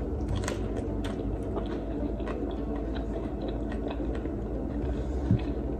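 A person chewing a mouthful of roti and okra curry close to the microphone, deliberately making audible mouth sounds, with scattered small clicks over a steady low hum.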